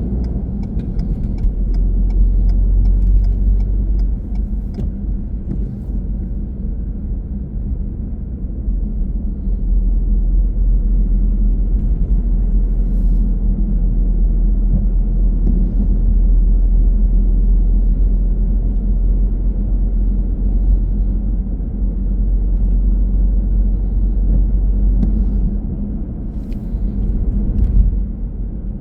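Car driving along, with a steady low rumble of road and engine noise. Light regular ticking in the first few seconds.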